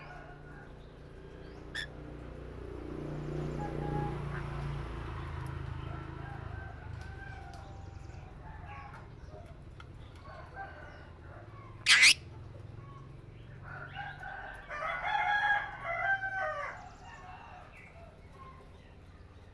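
Birds calling: scattered calls, then one short, sharp, loud sound about twelve seconds in, and a longer burst of pitched calls near the end.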